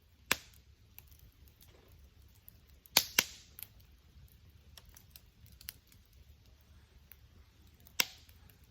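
Wood fire crackling, with loud sharp pops from the burning wood: one just after the start, a quick double pop about three seconds in, and another near the end, between faint small crackles.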